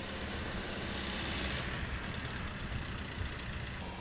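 Steady wind and road rumble from riding a Zero SR/F electric motorcycle, with no engine beat. The sound changes abruptly near the end.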